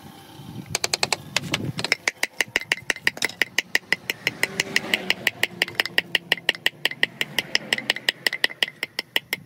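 Rapid, even hammer taps on stone, about six to seven strikes a second with a slight ring, as pieces are trimmed or set for natural stone wall cladding.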